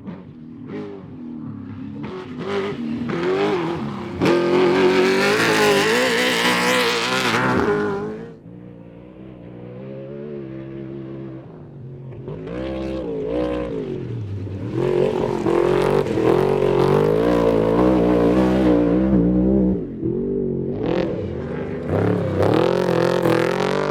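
Trophy truck engines racing past at high revs, the note rising and falling as the throttle comes on and off. One truck is loudest from about four to eight seconds in, then another builds from about twelve seconds and stays loud to the end.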